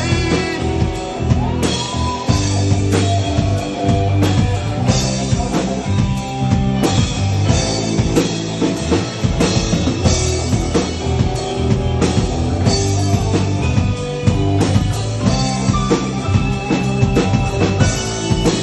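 Instrumental break of a rock song: drum kit and guitar playing with no vocals.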